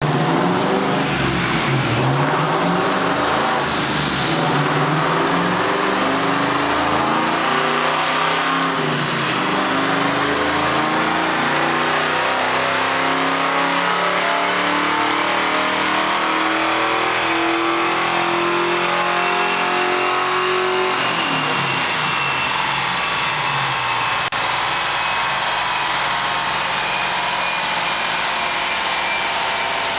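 Stroked 5.0 V8 of a 1999 Mustang GT running on a chassis dynamometer. The revs rise in short steps at first, then climb in one long wide-open pull. About two-thirds of the way through the throttle closes and the engine drops back, while a high whine falls slowly as the car coasts down on the rollers.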